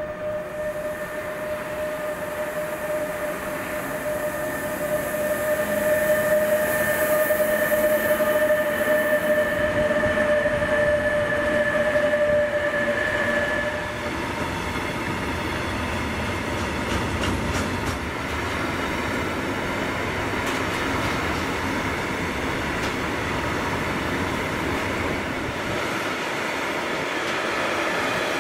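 A Metrans Siemens Vectron electric locomotive passing at speed with a freight train, with a steady whine that cuts out about halfway through. The container wagons then roll past with steady wheel noise and scattered clicks over the rail joints.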